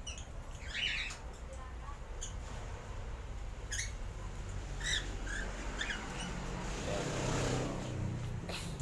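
Cockatiels giving several short chirps over a steady low hum, with a longer rustling swell about seven seconds in.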